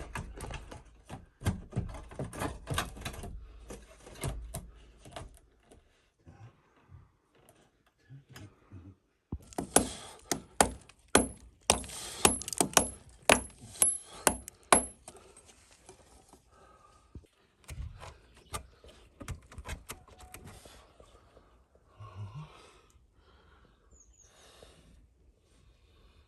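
A run of sharp knocks and clatters of hard objects, scattered and quieter at first, then a dense, loud burst of them about ten to fifteen seconds in before thinning out again.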